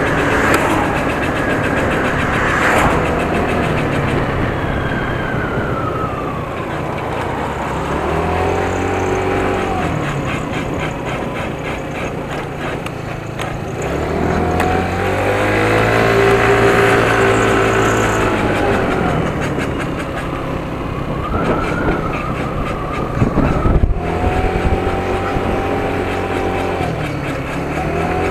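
Yamaha R1 Mini motorcycle engine under way, revving up and easing off several times, its pitch rising and falling in repeated surges.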